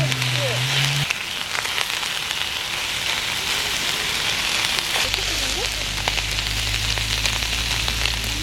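Beef sizzling on a hot grill: a steady frying hiss with scattered pops and crackles. A low steady hum comes in about five seconds in.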